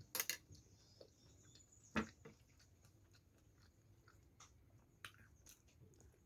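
Faint chewing of food with a few short, sharp mouth clicks, the strongest about two seconds in.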